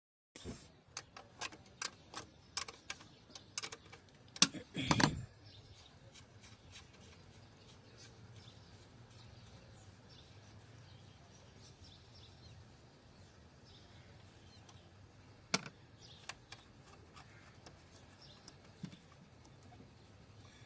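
Hand tools and metal engine parts clicking and knocking as a CNG injector's pipe and fittings are undone: a quick run of knocks in the first five seconds, then quiet with a single sharp click about fifteen seconds in.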